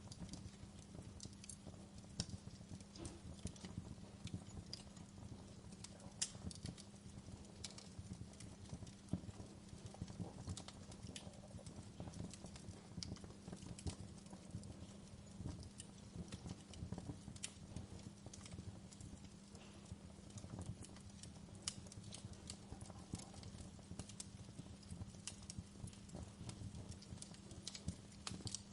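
Campfire burning: a low steady rumble of the flames with irregular sharp crackles and pops from the burning wood.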